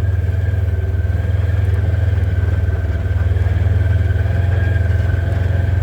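A vehicle engine running steadily at an unchanging speed, with a constant fast low pulse.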